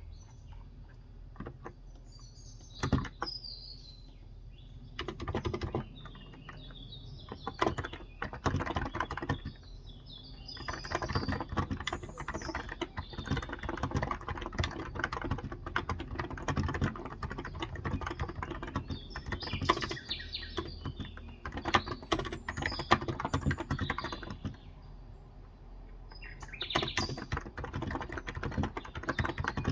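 Typing on a COX Endeavour tenkeyless keyboard with contactless (electrostatic capacitive) 35 g switches, in runs of rapid keystrokes with pauses: a single keystroke about three seconds in, a long run from about five seconds, a short break near the end, then typing again. Small birds chirp in the background, heard most clearly in the pauses at the start.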